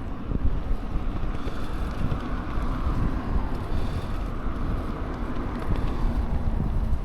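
Wind buffeting the microphone while riding a bicycle, a steady low rumble, with a faint hum swelling and fading in the middle.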